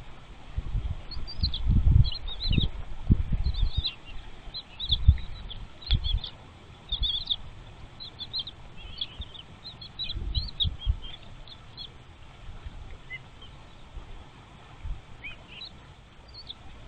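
Nestling birds making many short, high-pitched chirps in quick clusters, the calls of chicks in the nest, with repeated low thumps and bumps underneath.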